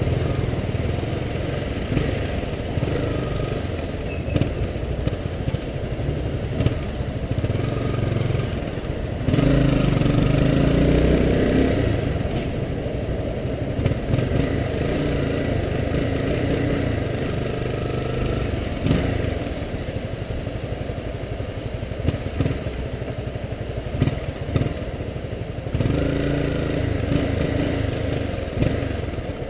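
Honda CBR250R's single-cylinder engine running at low speed in town traffic, picking up revs about ten seconds in and again near the end.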